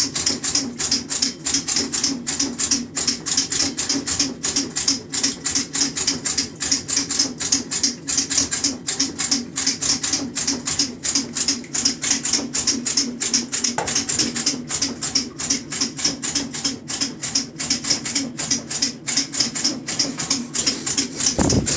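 KitchenAid top-loading washer agitating with a rapid, even clicking, about four clicks a second, over a steady low hum. The owner says the noise during agitation is not normal.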